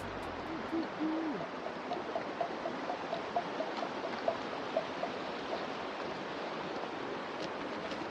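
Creek water running steadily over rocks, with a faint series of short hooting notes repeated two to three times a second in the first half.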